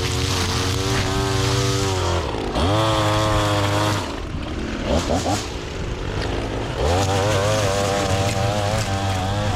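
Small petrol engine of lawn equipment running loud, its revs falling and rising several times: high at first, a brief dip and climb back, a drop to a lower speed partway through, then up again near the end.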